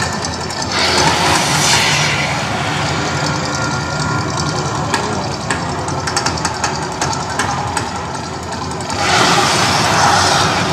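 The Mirage's man-made volcano erupting: a steady low rumble, with two rushing surges of noise, one about a second in and one near the end.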